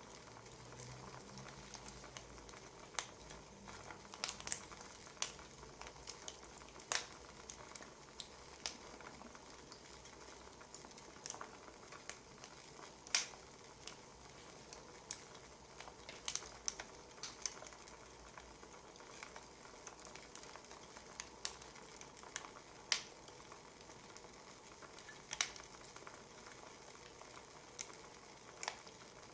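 Wood fire crackling: a steady soft hiss broken by irregular sharp pops and snaps from the burning logs.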